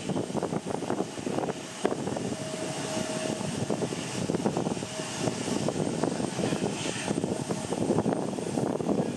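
Strong gusty wind buffeting the microphone, with a jet airliner's engines running underneath. A faint steady whine comes and goes in the middle.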